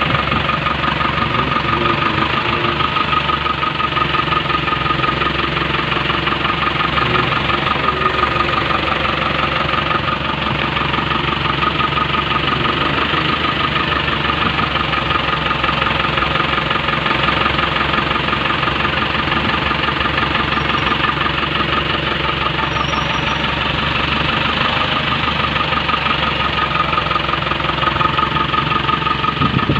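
Tata diesel truck engine idling steadily, with a fast, even pulsing beat that holds the same throughout.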